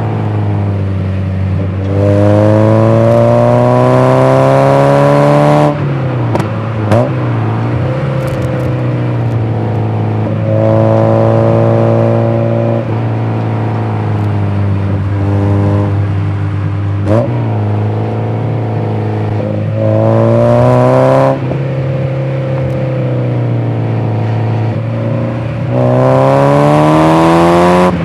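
Mazda MX-5 NA's 90 hp 1.6-litre four-cylinder engine being driven hard: four times the engine note climbs under throttle for a few seconds, louder as it rises. After the first three climbs the pitch drops suddenly as the throttle lifts or a gear changes, then it settles to a steadier note in between.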